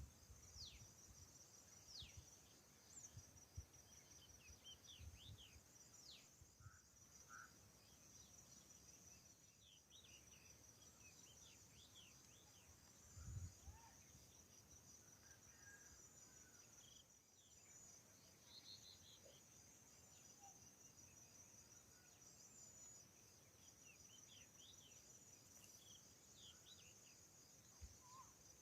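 Faint forest ambience: insects keep up a steady, high pulsing trill, and small birds call in short, falling chirps throughout. A soft low thud comes about thirteen seconds in.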